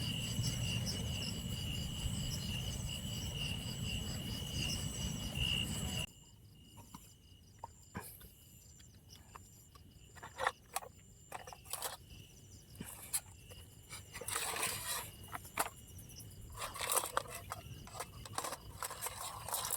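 Insects chirping steadily in a high, pulsing chorus. For the first six seconds a low rumble sits under them and stops abruptly, then scattered clicks and rustling come and go, busier near the end.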